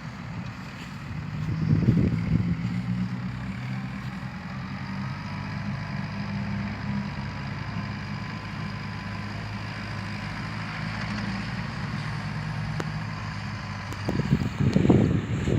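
Dump truck's diesel engine running steadily at low revs, with louder surges about two seconds in and again near the end.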